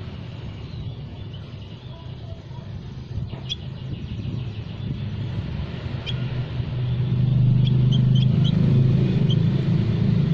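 A low rumble that swells about two-thirds of the way in and stays loud, with faint, short, high bird chirps scattered over it.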